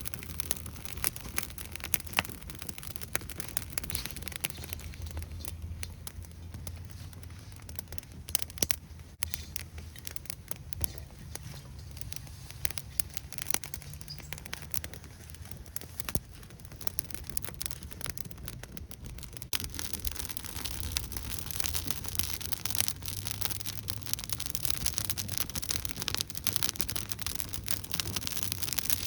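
Wood campfire crackling and popping, with irregular sharp snaps over a low, steady rumble of flame.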